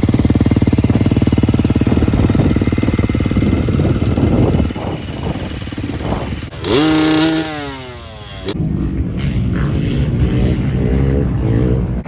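Dirt bike engine running hard with a fast, even firing beat. About seven seconds in, a loud surge comes and its pitch falls steeply for about two seconds as the revs drop, then the engine runs on at a lower, steadier pitch.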